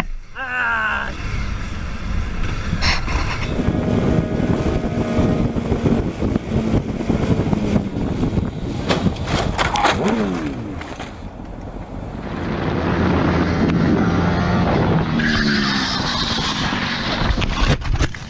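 Motorcycle engine revving, its pitch climbing and falling repeatedly, over road and wind noise. A few sharp knocks cut in about halfway through and again near the end.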